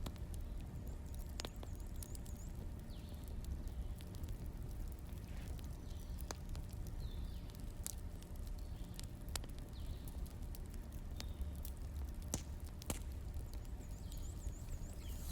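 Wood fire burning: a low steady rumble with irregular crackles and sharp pops every second or so. Faint short high chirps come and go.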